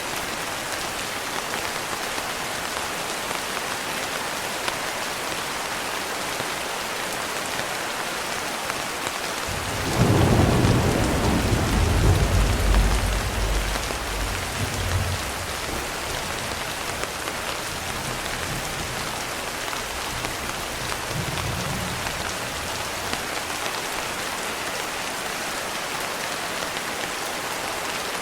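Steady rain falling, with a roll of thunder breaking in about ten seconds in. The thunder is loudest for a few seconds, then rumbles on more faintly and dies away.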